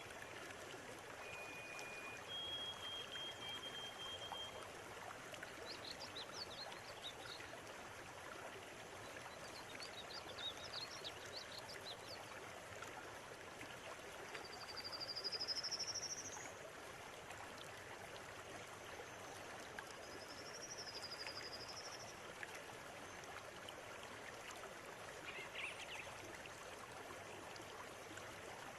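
River water flowing steadily over stones, with small birds calling over it: scattered chirps and short whistles, the loudest a rising whistle about halfway through.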